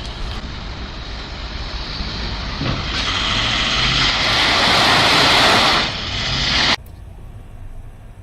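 Vehicle road and engine noise picked up by a dashcam microphone, a steady rushing rumble. It swells louder a few seconds in and then cuts off abruptly.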